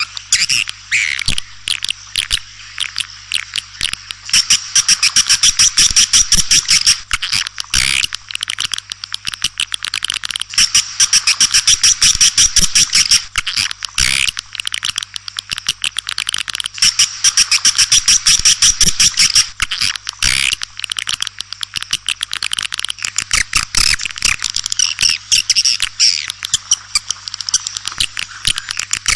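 Swiftlets twittering: a dense, fast stream of high chirps and clicks that swells into louder stretches about every six seconds, as in a looped swiftlet lure call. A faint steady hum lies under it.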